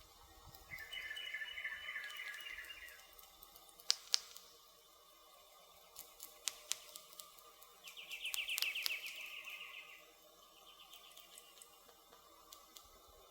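Campfire crackling, with sharp pops from the burning firewood, the two loudest about four seconds in. A bird gives a rapid trill of about two seconds twice, once about a second in and again near eight seconds.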